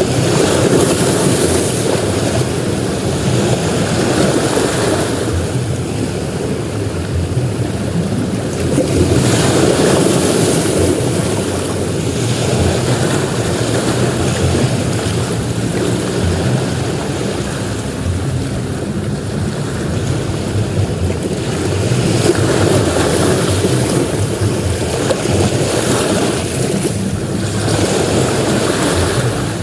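Ocean surf breaking on a beach: a continuous wash of waves that swells louder every several seconds as each wave comes in.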